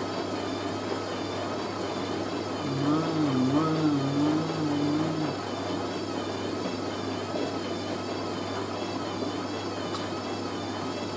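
Hoover A3060 Electronic 1100 washing machine's motor in an intermediate spin, its pitch wavering up and down in a regular cycle: the drum is unbalanced and the machine keeps checking its speed instead of settling into the spin. A stronger wavering low tone runs for a couple of seconds a few seconds in.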